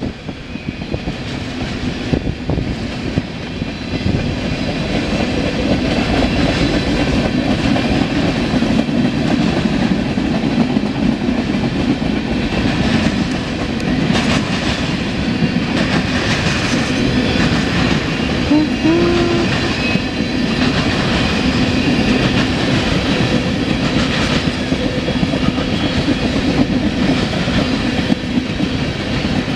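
Freight train tank cars rolling past, steel wheels running on the rails. The sound builds over the first few seconds, then holds steady.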